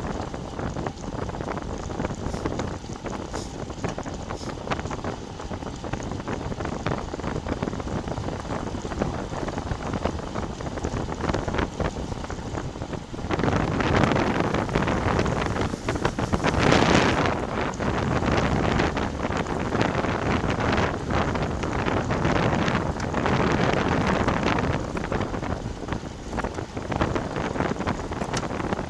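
Wind buffeting a bicycle-mounted action camera's microphone while riding, a steady rushing roar that swells louder in gusts about halfway in and again near the end.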